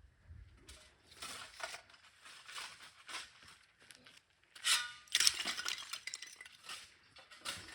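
Broken stone and rubble being handled: irregular scrapes and clinks of stone on stone and on a tool. The loudest come about five seconds in, with a short metallic ring.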